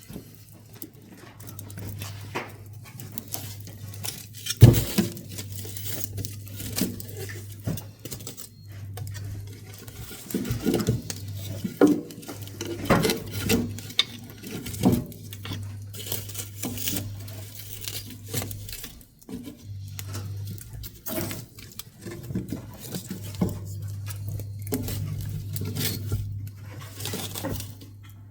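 Pine woodworking offcuts burning in a wood stove, crackling with irregular snaps and pops and one loud crack about five seconds in.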